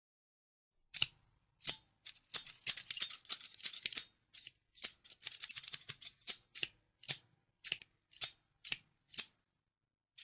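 Scissors snipping: crisp, sharp cuts, first in quick flurries, then slowing to single snips about two a second.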